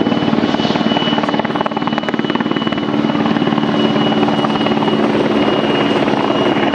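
Helicopter running close by and loud: a rapid, even beat of the rotor blades with a steady high turbine whine above it.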